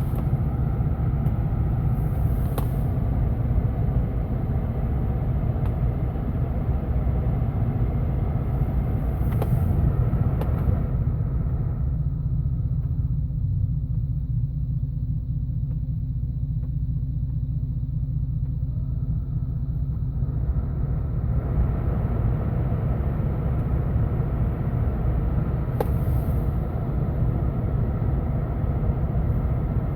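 Vehicle idling with its newly replaced heater blower fan running, a steady low rumble under the rush of air from the vents. The rushing layer drops away for about ten seconds midway, then comes back.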